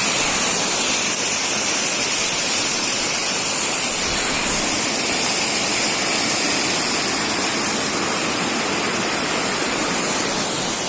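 Rain-fed water rushing in a steady, continuous flow.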